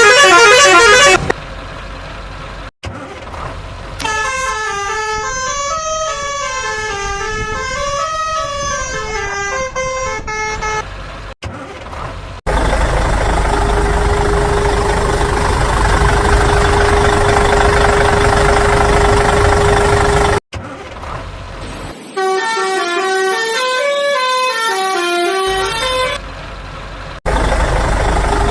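A melodic vehicle horn plays a short up-and-down tune twice, cut abruptly against stretches of engine-like running noise with a steady hum.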